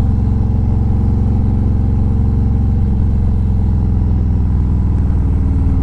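Harley-Davidson V-twin motorcycle engine running steadily under way, its low note shifting slightly partway through.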